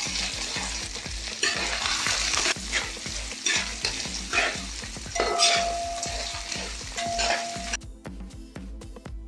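Chopped coconut sizzling as it fries in hot oil in a wide aluminium uruli, with a spatula scraping and stirring through it every second or so. A thin steady tone sounds for a couple of seconds past the middle, and the sizzle drops away abruptly near the end.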